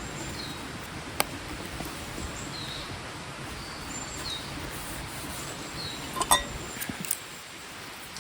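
Steady rush of a small stream, with small birds giving several brief chirps and a few sharp clicks, the loudest about six seconds in.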